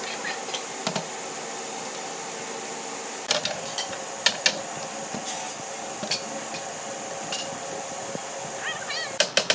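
Scattered light clicks and knocks of hand work on cabinet parts over a steady hum, with a short hiss about five seconds in.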